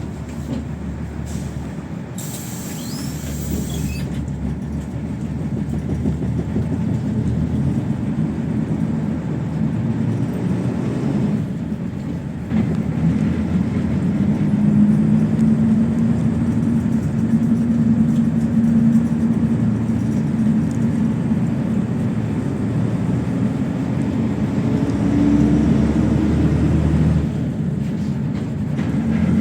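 PAZ 32054 bus engine running under way with steady road noise. The engine note dips briefly about twelve seconds in, as at a gear change, then comes back louder, and it shifts again near the end.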